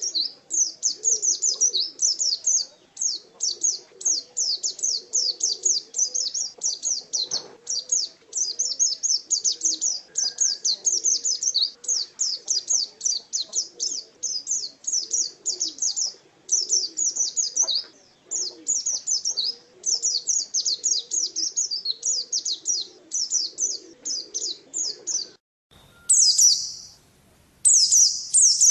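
Pleci (white-eye) songbird singing a fast, continuous chattering song of high chirps in rapid runs. About 25 seconds in the song breaks off, and a few louder, separate chirp phrases follow.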